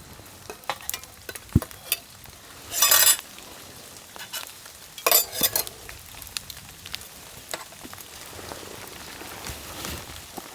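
Cooking in a pan over a fire: metal utensils clinking and scraping, with two short loud bursts of sizzling about three and five seconds in.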